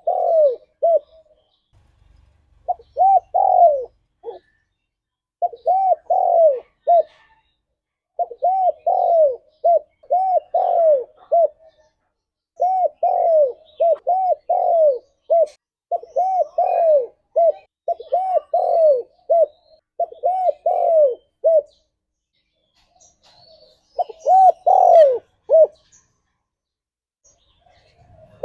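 Spotted dove cooing: repeated phrases of several short coos that bend down in pitch, about one phrase every two seconds, with longer pauses near the end.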